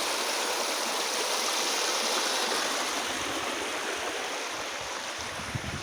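River rapids rushing over a basalt riverbed: a steady, even rush of water that fades slightly toward the end, with a few low thumps near the end.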